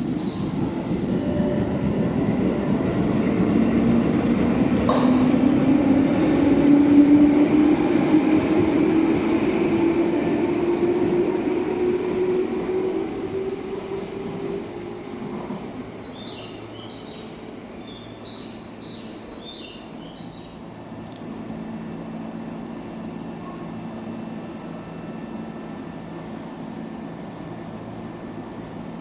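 Electric train pulling out, its traction motors whining in a tone that rises in pitch as it speeds up, growing louder and then fading away about halfway through. A short run of high chirps follows.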